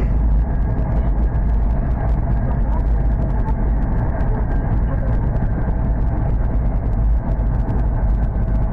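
Hokuriku Shinkansen bullet train running at speed, heard from inside the passenger cabin: a steady, deep rumble of wheels and track with a faint hum over it.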